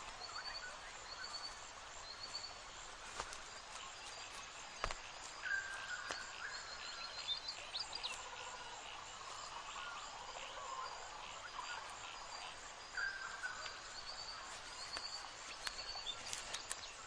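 Bird ambience: short high chirps repeating about once a second, a few brief lower whistled notes, over a steady hiss of insects and outdoor background, with scattered sharp clicks and taps.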